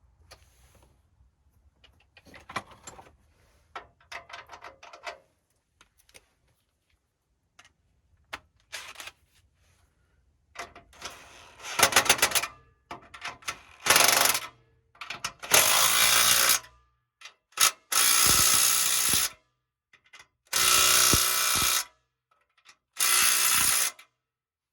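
Small 3/8-inch power tool running in short bursts of a second or two, four times in the last ten seconds, tightening exhaust fasteners. Before them, scattered clicks and clanks of tools being handled.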